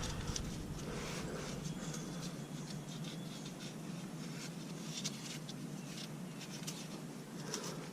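Faint scratching and rustling from hands picking leaves and dirt out of the tractor's engine compartment around the oil filter mount, with many small scattered clicks.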